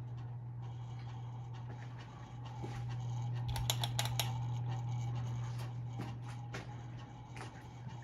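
Hampton Bay Carousel ceiling fan, made by CEI, running with a steady low motor hum and scattered light clicks and ticks, with a cluster of them about four seconds in.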